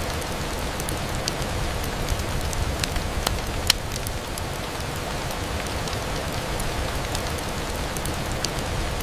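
Steady rain on a window, an even hiss with scattered sharp ticks of drops, one louder tick a little under four seconds in.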